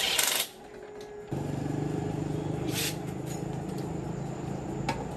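A short burst of hissing, then a motor starts abruptly about a second in and runs steadily. A second short hiss comes near the middle and a sharp click near the end.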